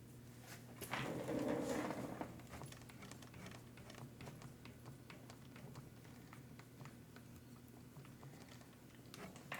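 Hands handling small parts on a workbench: scattered light clicks and taps, with a louder rustling scrape lasting about a second, starting about a second in. A steady low electrical hum runs underneath.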